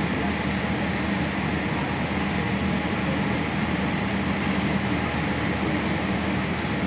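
Steady cabin noise inside a Boeing 787-8 airliner: an even rushing hum of engines and air-conditioning with a low drone, unchanging in level.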